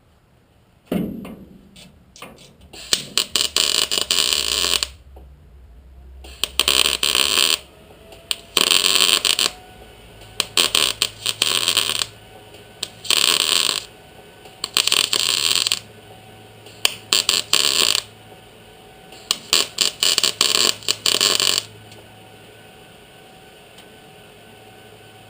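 MIG welder laying a series of short stitch welds on sheet-metal patch panels, about eight crackling, sputtering bursts of one to two seconds each with short pauses between.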